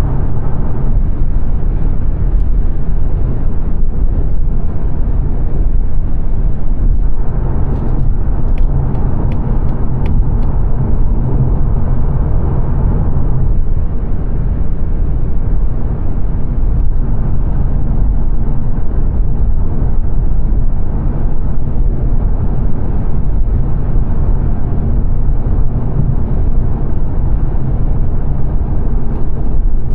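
Steady road and tyre rumble with engine hum inside the cabin of a 2022 Mazda 3 saloon cruising at speed on a dual carriageway.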